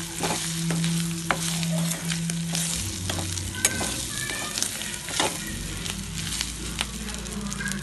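Goat lung pieces with ginger-garlic paste sizzling in hot oil in a metal kadai. A metal ladle stirs them, scraping and clicking against the pan, over a steady low hum.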